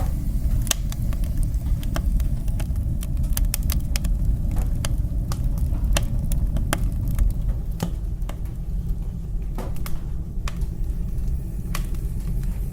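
Wood fire burning in a fireplace: a steady low rumble of flames under irregular sharp crackles and pops, which come thick through the first half and grow sparser toward the end.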